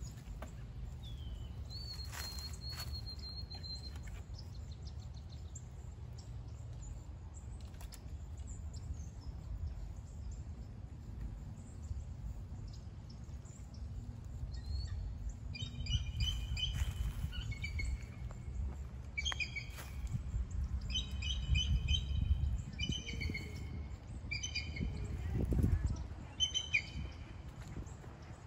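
Birds calling: a short high whistle a couple of seconds in, then from about halfway through, repeated bursts of short, high chirping notes, over a steady low rumble.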